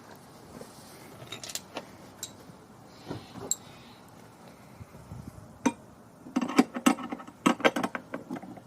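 Hand wrenches clinking against a bolt, nut and steel mounting bracket as they are fitted on: scattered light clinks, then a quick run of rattling clinks in the last couple of seconds.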